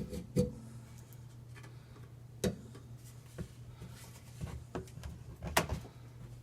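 Scattered light clicks and knocks of sink drain parts being handled, the loudest about two and a half seconds in and again near the end, over a steady low hum.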